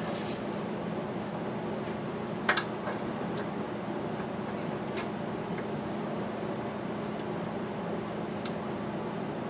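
Steady machine hum in a small room, with a few light clicks and taps of small parts and tools being handled, the loudest about two and a half seconds in.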